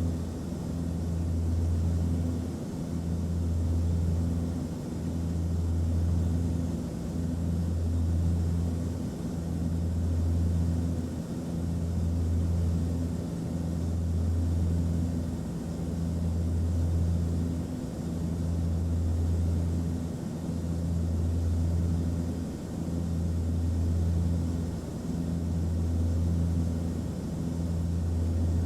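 Aircraft cabin noise: a steady low engine drone over a constant hiss of rushing air, the low hum swelling and fading about every two seconds.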